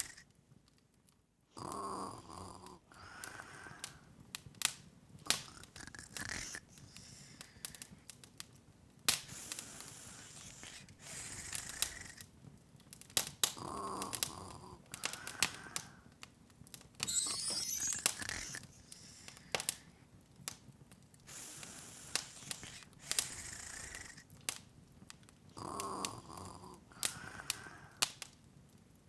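Wood fire crackling in a fireplace: irregular sharp pops and snaps over a faint hiss, in a loop that repeats about every 12 seconds.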